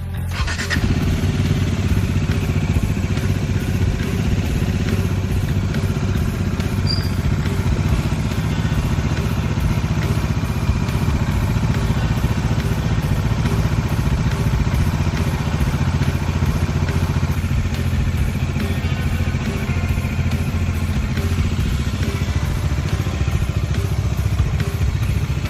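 Bajaj Dominar 400's single-cylinder engine running steadily at a constant speed, starting about half a second in.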